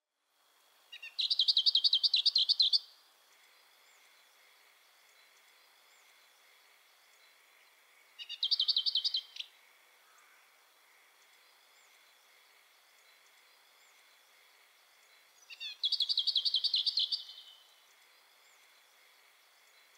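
A songbird singing three times, each song a fast trill of rapidly repeated high notes lasting one to two seconds, led in by a few short notes. A faint steady high hum runs beneath.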